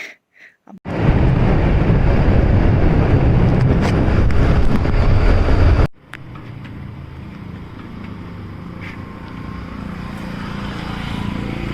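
A vehicle on the move: loud wind rush on the microphone for about five seconds, then an abrupt change near the middle to a quieter, steady running noise with a low hum that slowly swells.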